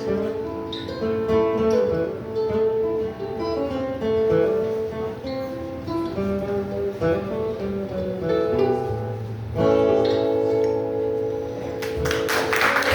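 Acoustic string band playing an instrumental passage led by picked acoustic guitar, closing on a held chord about ten seconds in. Audience applause starts near the end as the song finishes.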